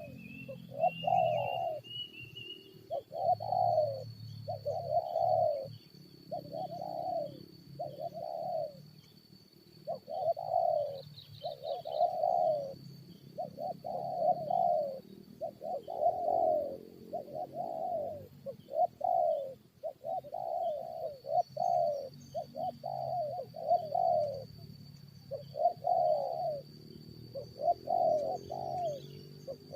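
Spotted dove cooing over and over, phrase after phrase of short rolling coos with brief pauses between runs.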